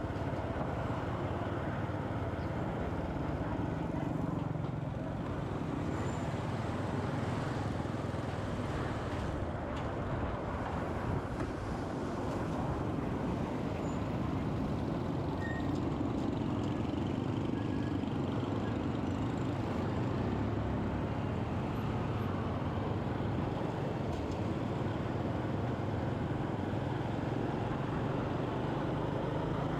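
Steady road noise from a moving motorcycle in city traffic: the motorbike's engine and the surrounding vehicles blend into one even rumble that doesn't break.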